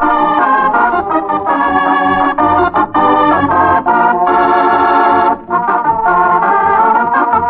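Organ music: a closing theme played on an electric organ in held chords that change every second or so, with a brief break about five seconds in.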